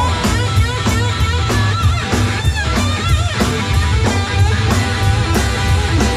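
Live rock band playing an instrumental break: an electric guitar lead with bent notes over a steady drum beat and bass guitar.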